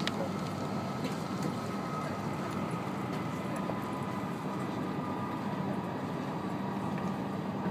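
Steady running noise inside the cabin of an E5 series Shinkansen travelling at speed: an even rushing with a low hum and a faint, thin high whine.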